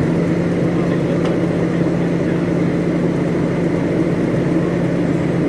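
Fire truck engine running steadily at idle, a constant low hum.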